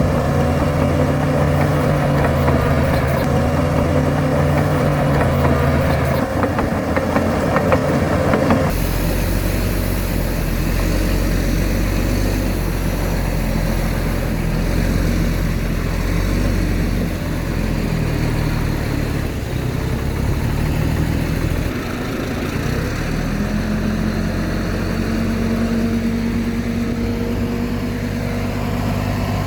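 Diesel engines of heavy earthmoving machinery running steadily. The sound changes abruptly about nine seconds in, and a stronger engine note builds up near the end as a machine works harder.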